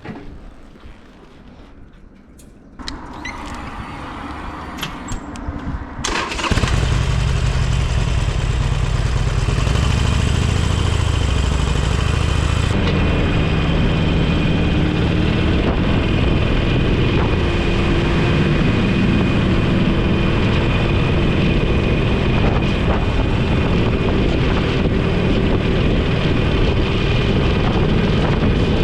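Motorcycle engine starting about three seconds in and running briefly at idle, then the bike pulls away about six seconds in and rides on, the engine and rushing wind loud and steady.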